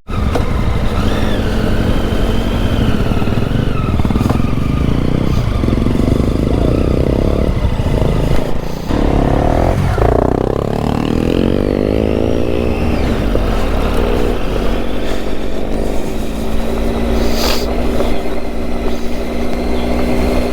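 Motorcycle engine running on a slippery off-road trail, its revs rising and falling through the middle, then holding steadier toward the end.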